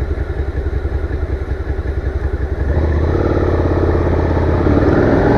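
Motorcycle engine idling with a fast, even exhaust pulse, then running louder and revving higher about halfway through.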